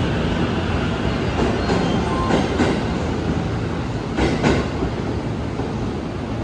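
Electric express train running past with a steady rumble, its wheels clicking over rail joints in three quick pairs as the bogies cross.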